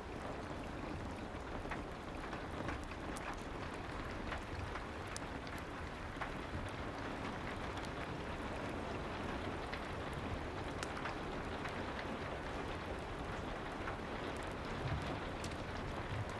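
Steady soft rain with scattered small crackles and pops from a fireplace.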